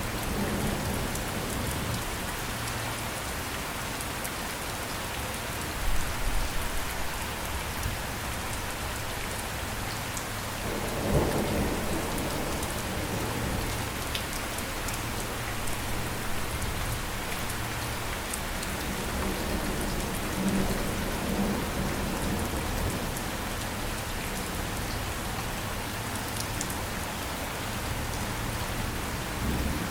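Steady rain, with deep low rumbles swelling up about six and eleven seconds in and again around twenty seconds.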